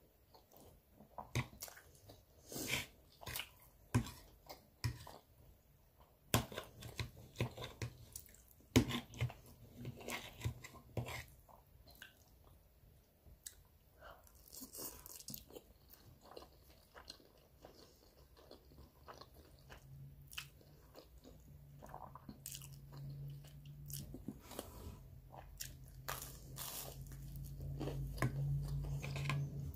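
Close-up eating sounds: crunchy bites into toasted bread and chewing of spaghetti, with sharp crunches scattered through the first ten seconds. A low steady hum comes up in the last several seconds.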